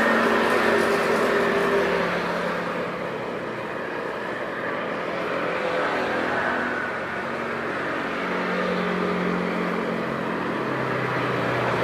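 Loud, steady engine noise with low tones that slowly shift in pitch, loudest at the start and easing off after a couple of seconds.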